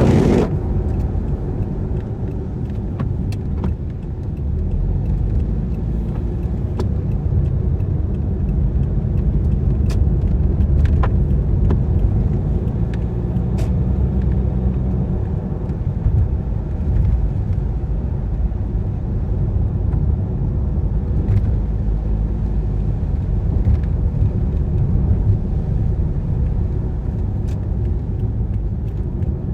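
Car on the move: a steady low rumble of engine and tyres on a wet road, with scattered faint ticks. There is a brief loud burst of noise right at the start.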